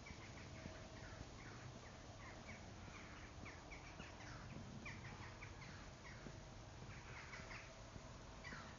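Faint chorus of small birds chirping: many short, quick downward-sliding calls overlapping throughout.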